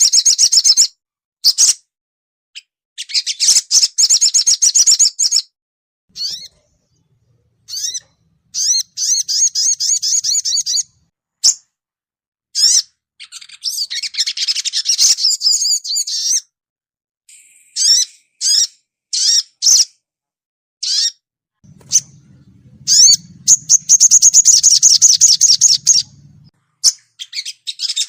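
Sogon bird calling in bursts of fast, high, twittering trills and chirps (the 'cuit cuit crett' and rapid 'ngriwik' chatter), separated by short pauses. A faint low hum sits under the calls for a few seconds past the middle.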